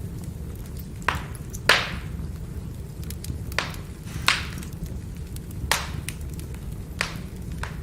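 Firewood burning: a steady low rumble from the fire with six sharp pops and cracks from the logs, the loudest about two seconds in.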